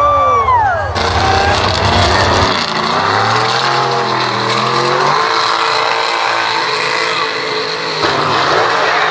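Mega mud truck engine revving hard, its pitch dropping sharply about a second in, then running on with revs rising and falling.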